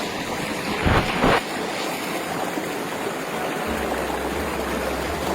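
Rushing water of a small waterfall and its stream: a steady, even rush, with two brief louder bursts about a second in.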